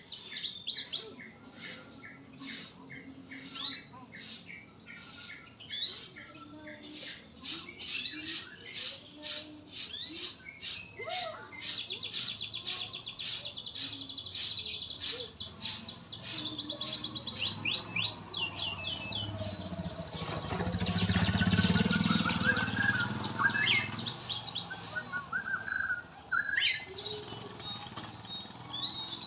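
White-rumped shama singing: a long run of rapid, varied chirps and sweeping whistles. A low rumble swells and fades about two-thirds of the way through, louder than the song.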